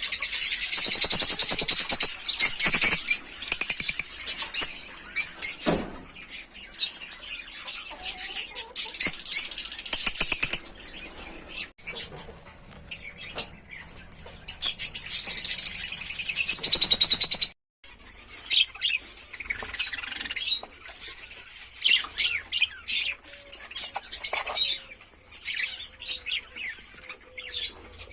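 Cage birds chirping and chattering in shrill spells of many calls at once, near the start, around nine seconds in and again around sixteen seconds in, with scattered single chirps between.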